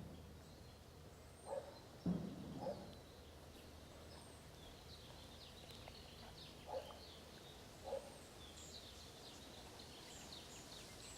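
Faint birdsong: many short high chirps that grow busier from about four seconds in, with a few short lower calls between them and a soft thump about two seconds in.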